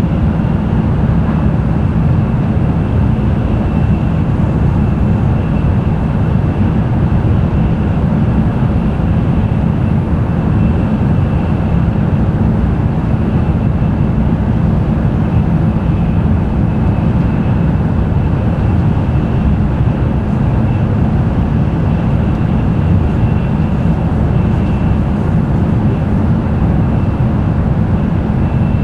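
Tokaido Shinkansen N700-series train running at speed, heard from inside the passenger cabin: a steady deep rumble with rushing noise over it and a faint, steady high-pitched tone.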